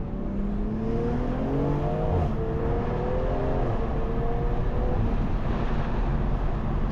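Tuned BMW M340i's turbocharged inline-six accelerating: the engine note rises, drops at an upshift about two seconds in, rises again and shifts once more a little later, then settles to a steady note.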